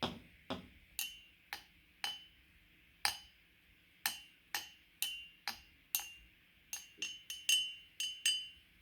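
A steady series of sharp taps or clicks, about two a second and coming a little faster near the end, many of them with a brief high ringing after the strike.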